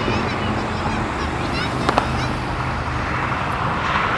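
Steady low rumble of traffic with wind on the microphone, and one sharp firework bang about two seconds in.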